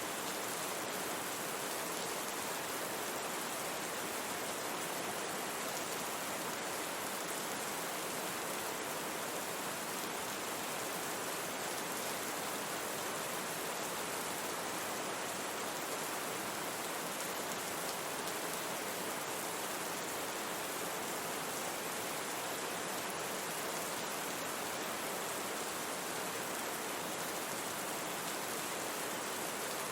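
Steady rain, an even hiss spread across the treble with little bass.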